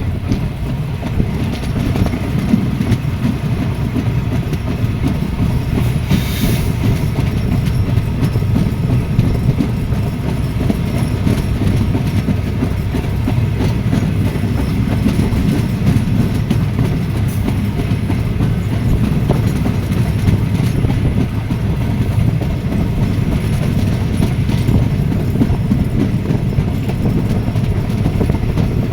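A train running along the track: a steady low rumble of wheels on rail with scattered clicks, and a brief hiss about six seconds in.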